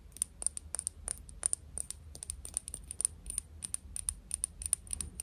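ASMR hand sounds: a rapid, irregular stream of crisp clicks and taps from fingers and nails, several a second.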